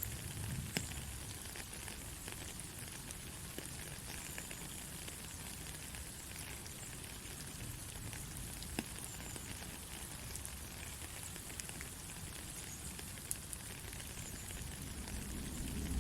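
Steady soft rain: an even hiss with scattered sharp ticks of single drops landing, over a low rumble that grows slightly near the end.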